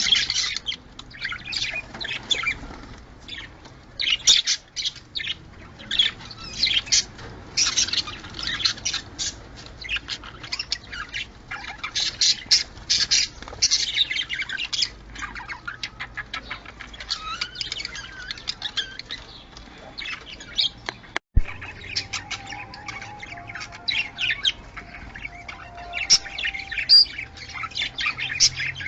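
A group of budgerigars chattering nonstop, with rapid chirps, warbles and squawks: the busy chatter of budgies in breeding mood. A single sharp click with a brief dropout comes about two-thirds of the way through.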